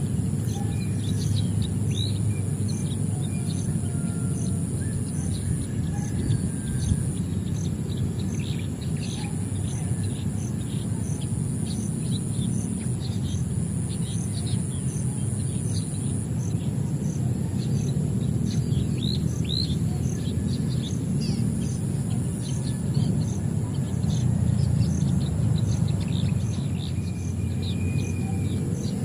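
Many small birds chirping in quick, short calls throughout, over a steady low rumble of outdoor background noise. A high, thin steady whine with a regular ticking runs behind them, stopping and starting at times.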